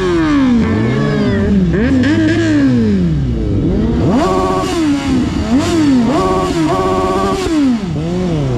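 Suzuki GSX-S 750 inline-four engine heard from the rider's seat, revved and let off over and over, its pitch rising and falling, with a few short steady high stretches in the middle. Its owner finds the tone airy and not clear, unlike a Kawasaki Z800, and suspects the exhaust.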